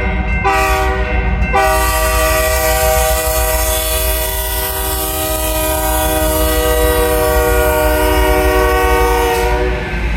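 Air horn of a GE freight locomotive leading a train: two short blasts, then a long held blast that stops shortly before the end, over the low rumble of the moving train.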